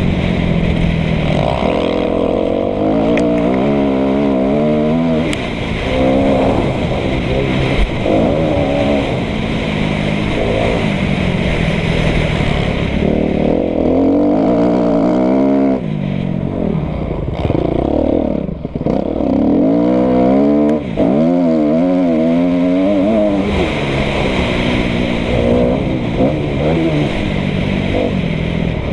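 2013 Kawasaki KX250F four-stroke single-cylinder engine being ridden hard, its revs rising and falling over and over, with one deep drop and climb about two-thirds of the way through.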